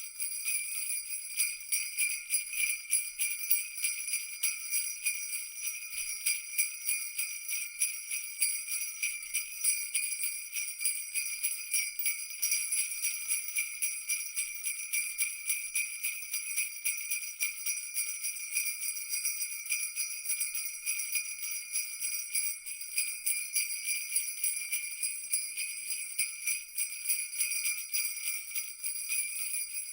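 Jingle bells shaken continuously in a fast, even jingling, with a high bright ringing and nothing below it.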